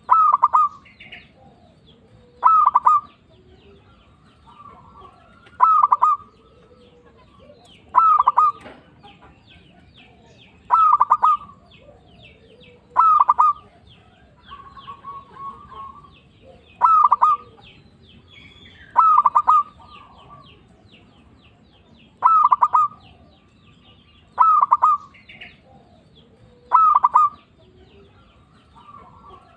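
Local zebra dove (perkutut) singing its cooing call over and over, a short call about every two to three seconds.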